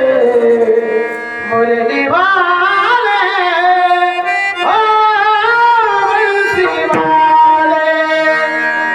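Male voice singing a devotional kirtan melody in long, ornamented notes that bend and waver, accompanied by tabla strokes and steady sustained instrumental tones.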